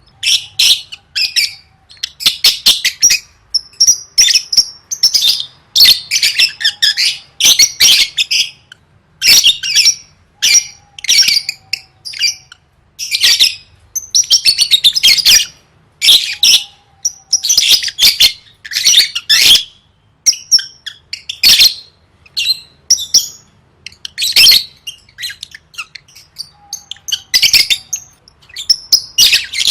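Lovebird chattering: rapid, shrill chirps and twitters in bursts of a second or two, broken by short pauses, going on without let-up.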